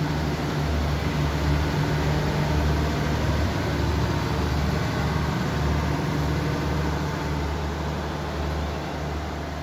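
Steady low mechanical hum with a rushing noise from a standing passenger train's onboard machinery, such as its air-conditioning or power units, heard from inside the carriage. The hum pulses unevenly and eases slightly near the end.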